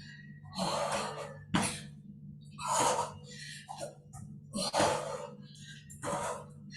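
A person breathing hard while doing burpees, with forceful exhalations about once a second over a steady low hum.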